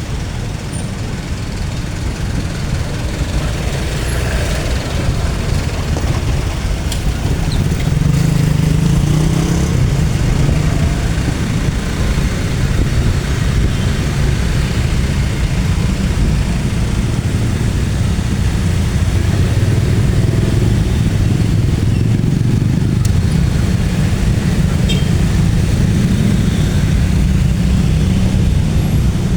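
A long train passing at a railway level crossing: a steady low rumble that builds over the first several seconds and then holds, with a few faint clicks.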